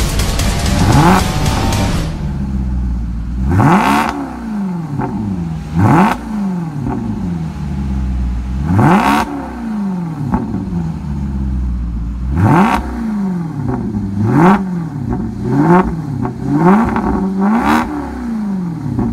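2012 Maserati GranTurismo S's 4.7-litre V8 revved while standing: sharp throttle blips that rise and fall back to idle, spaced a couple of seconds apart, then several in quick succession near the end, heard from the exhaust.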